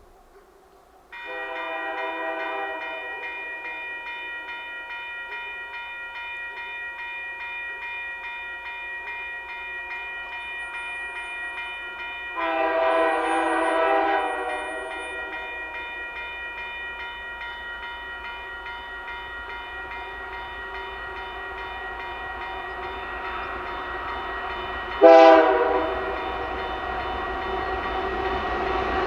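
Railway grade-crossing bell ringing in rapid, even strikes as a Canadian Pacific freight train approaches. The lead locomotive's horn sounds a blast of about two seconds about halfway through and a short, louder blast near the end, while the noise of the oncoming train grows.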